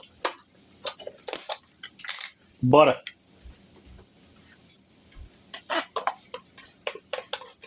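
Day-old rice sizzling in hot oil in a pan, a steady high hiss, with scattered clicks and taps throughout.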